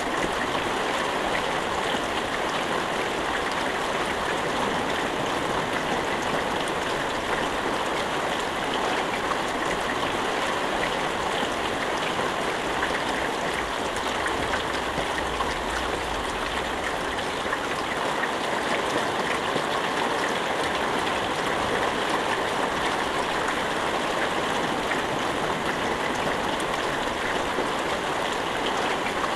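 Steady heavy rain falling, a constant dense patter without thunder.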